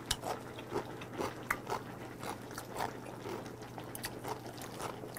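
Close-miked eating sounds: wet smacking and chewing as meat is gnawed off a pork bone from gamjatang, with short irregular mouth clicks a few times a second.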